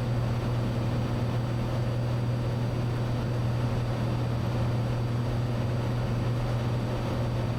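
Cessna 182 Skylane's piston engine and propeller droning steadily in cruise flight: an even low hum with a faint steady high tone above it.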